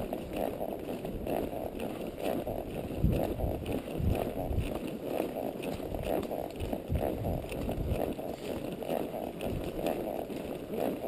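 Quarter horse walking briskly on a dirt trail: a steady, even rhythm of hoofbeats.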